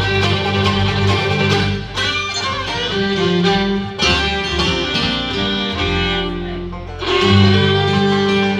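Acoustic bluegrass band of banjo, mandolin, fiddle, guitar and upright bass playing an instrumental passage with no singing.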